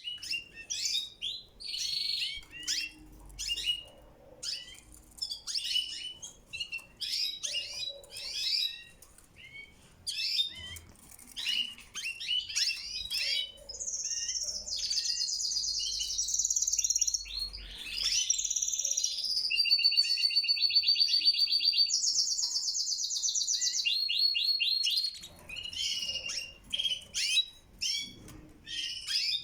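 Domestic canaries singing and chirping: short, high chirps and calls at first, then from about halfway a long unbroken song of fast trills and rolls lasting about ten seconds, after which the short chirps return.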